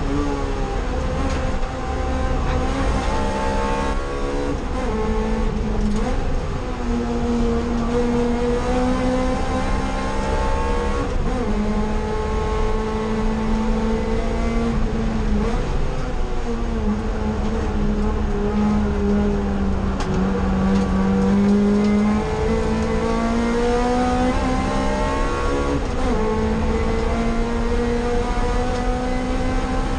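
Honda Accord Euro R's 2.0-litre four-cylinder VTEC engine heard from inside the cabin at speed, its note climbing slowly through the revs, sagging and climbing again, over steady tyre and road noise. The revs build sluggishly, which the driver puts down to running the fuel level too low.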